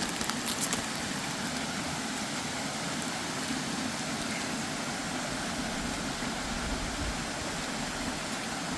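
Waterfall rushing as a steady, even wash of water noise, with a few faint crackles in the first second.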